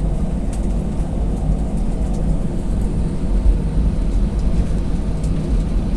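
Steady low rumble of an Airbus A320's engines and airframe, heard from inside the passenger cabin.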